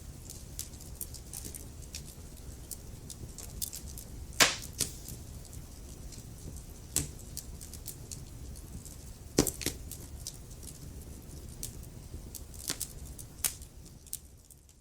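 Wood fire crackling: a low steady rumble of flames under many small sharp snaps, with a few louder pops about four and a half, seven, nine and a half and twelve and a half seconds in. The sound fades away at the very end.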